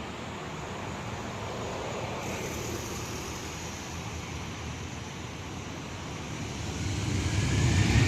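Boeing 737's jet engines running at taxi power, a steady rushing noise that grows louder near the end.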